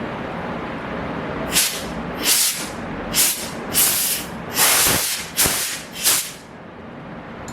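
Compressed air from a home-built refrigerator-compressor air compressor hissing out in about seven short blasts, one a little longer than the rest, over a steady machine hum that drops away near the end.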